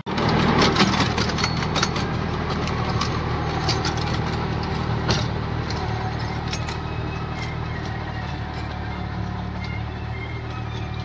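A Sonalika 26 hp mini tractor's diesel engine running steadily, with sharp metallic clanks and rattles over the first half and one louder knock about five seconds in.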